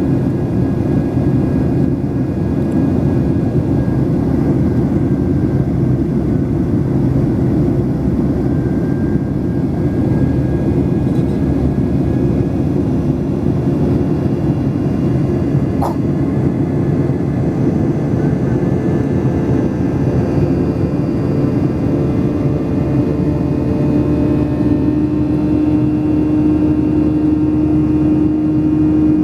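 Jet engine and airflow noise inside the cabin of a Boeing 737-800 under takeoff or climb power: a loud, steady rumble from its CFM56-7B engines. A single brief click comes about halfway through, and a steady low hum grows stronger near the end.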